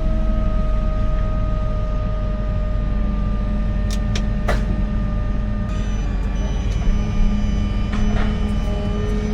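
Heavy diesel construction machinery running steadily, a low rumble with a steady whine over it, and a few short clicks and knocks about four seconds in and again near the end.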